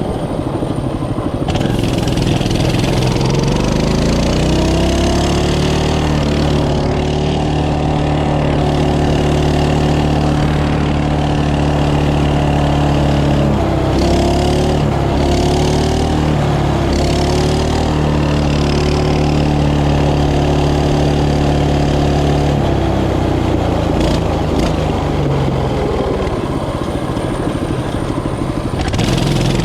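Mini bike's small engine running while riding, rising in pitch as it speeds up and then holding steady, with a brief dip about halfway. It eases off a few seconds before the end and picks up again near the end.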